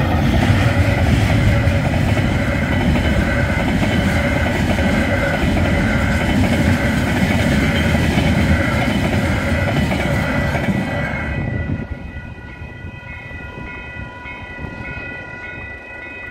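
Freight train wagons rolling through a level crossing, a loud steady rumble that drops away sharply about twelve seconds in as the last wagon clears. The crossing's warning bells ring throughout, with a steady pulsing beat that stands out once the train has gone.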